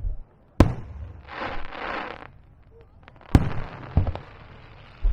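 Aerial fireworks shells bursting over the sea: two sharp bangs about three seconds apart, with a hissing crackle of burning stars between them and a smaller thump after the second bang.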